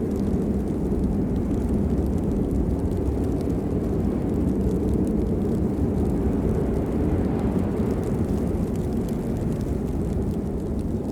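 Steady rain: a dense, low, even rushing with faint scattered drop ticks over it.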